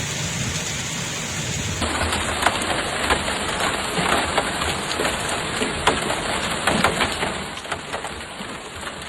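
Heavy rain pouring down in a dense hiss, with many sharp drop impacts cracking against a hard surface. The sound changes abruptly about two seconds in.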